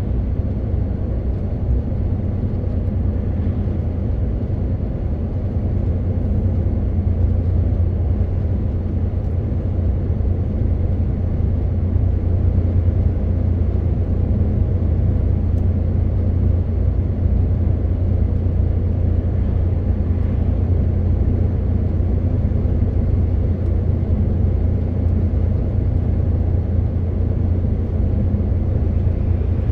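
MAN TGX 18.520 truck's straight-six diesel engine running steadily while driving, a constant low drone with road noise over it.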